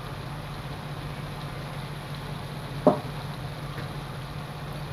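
Chicken and shrimp sizzling in a metal pot as they are stirred with a wooden spoon, over a steady low hum. One brief sharp sound about three seconds in.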